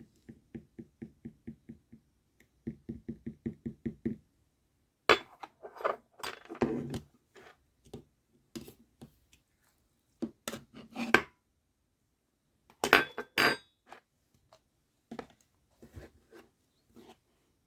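Slime with pearl beads mixed in being squeezed and pressed by hand. It opens with a run of even, soft squishes, about four a second, then gives irregular groups of sharp clicking and crackling as the beads are pressed.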